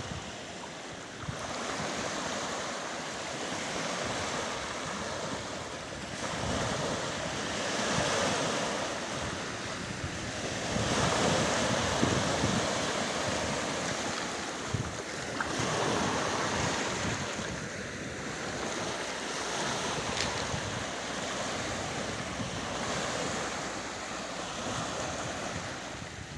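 Fjord water washing on the shore, swelling and easing every few seconds, with wind buffeting the microphone.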